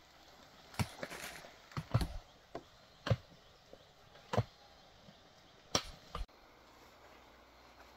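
About seven sharp knocks at uneven intervals, each one a short strike, with two close together near the end.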